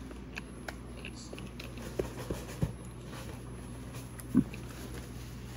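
Faint mouth noises of chewing and swallowing banana: a few small wet clicks and lip smacks, then one short hummed "mm" about four seconds in, over a low steady room hum.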